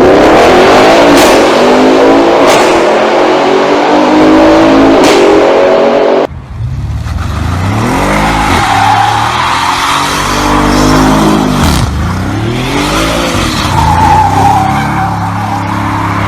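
Audi RS6 engine under hard acceleration, its pitch climbing steadily, with three sharp cracks along the way. After an abrupt cut, the engine is revved up and let fall back several times, then settles into a steady drone.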